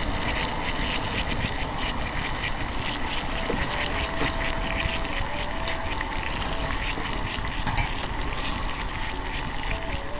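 Water boiling in a pot over a campfire for coffee, a dense steady bubbling and crackling, with two sharp clinks in the middle.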